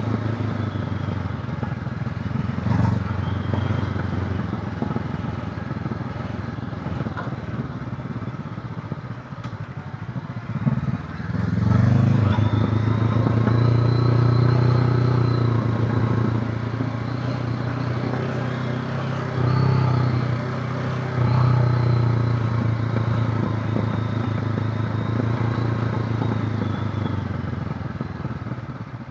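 Honda CB500X's parallel-twin engine running steadily under way on a motorcycle ride. It eases off briefly about ten seconds in, then pulls louder from about twelve seconds.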